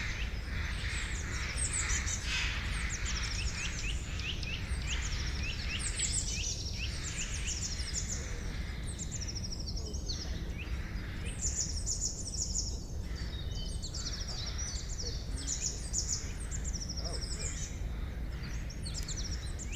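Forest birds chirping and trilling, many quick repeated notes from several birds at once, over a steady low rumble.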